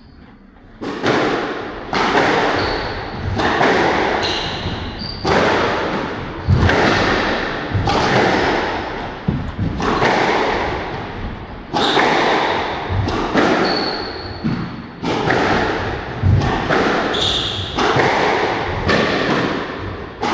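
Squash rally: the ball cracks off rackets and the walls about once a second, each hit echoing, with short high shoe squeaks on the court floor between shots.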